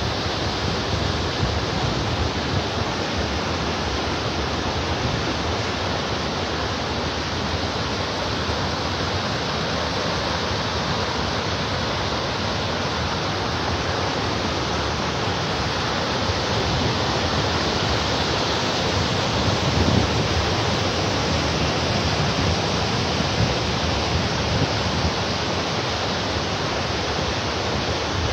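Waterfall pouring, a steady loud rush of falling and splashing water that swells slightly about twenty seconds in.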